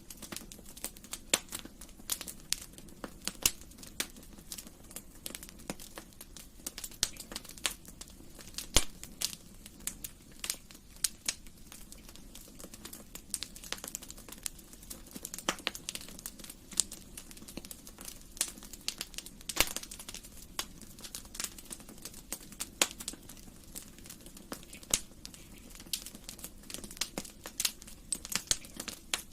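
Wood fire crackling in a fireplace: irregular sharp pops and snaps, a few loud ones among many small ones, over a low steady hiss.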